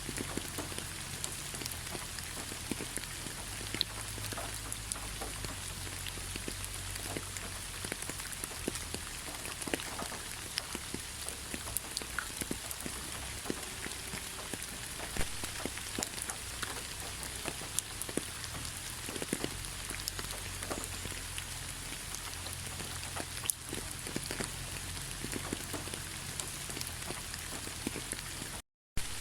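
Steady rain falling, a continuous hiss with many individual drops ticking sharply on a surface, over a low rumble. The sound cuts out completely for a moment near the end.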